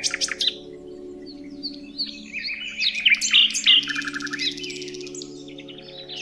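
Several birds chirping and calling in quick, overlapping phrases and rapid trills, over a low steady drone.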